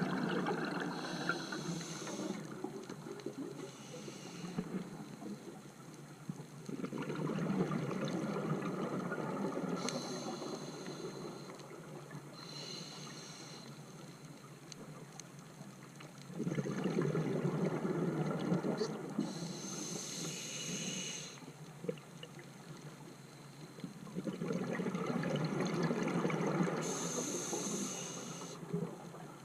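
A scuba diver breathing through a regulator underwater: short hissing inhalations alternate with longer stretches of bubbling exhalation, about three breaths in all.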